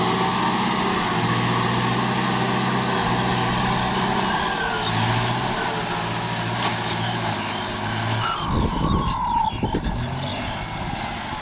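Kubota tractor's diesel engine running steadily, its note shifting a few times. About eight seconds in there are a couple of seconds of louder low rumbling and clatter, with a short falling whine.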